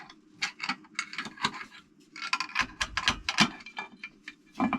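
Metal engine parts and tools being handled, giving irregular clicks and clinks, with a dull thump a little past halfway.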